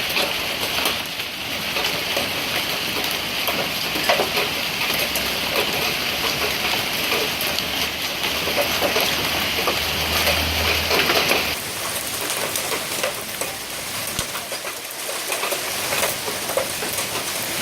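Hailstones falling and striking hard surfaces: a dense patter of many small impacts over a steady hiss. The higher part of the hiss cuts off suddenly about two-thirds of the way in, and the patter goes on.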